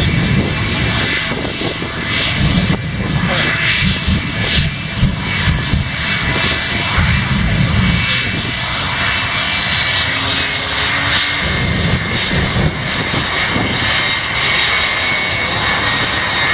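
Shockwave jet truck's three jet engines running at high power: a loud, steady roar with a pulsing low rumble.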